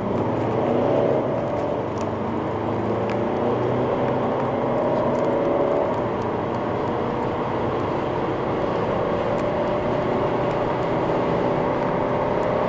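Turbodiesel car engine under hard full-throttle acceleration, heard from inside the cabin, its pitch climbing steadily and dipping briefly at the upshifts.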